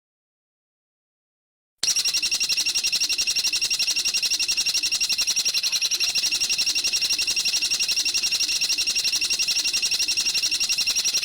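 Silence, then about two seconds in a bird starts a fast, even trill of rapidly repeated high notes that runs on without a break.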